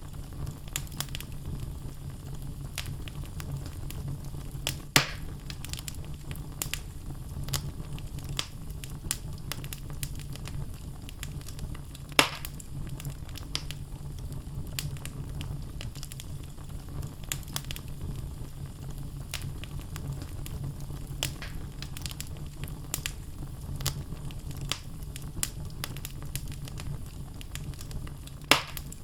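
Wood logs burning in a fireplace: steady crackling with many small clicks over a low rumble of the flames, and three louder pops.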